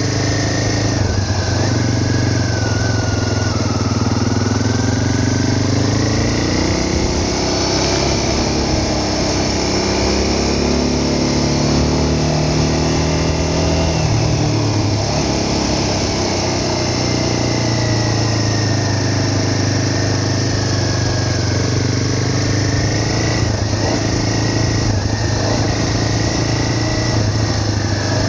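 A vehicle engine running steadily while under way, its pitch rising and falling gently as speed changes, over a constant rushing noise.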